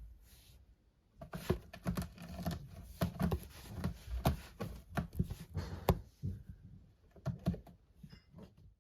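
A quick, irregular run of sharp clicks and taps, several a second, for about five seconds, with a few more near the end.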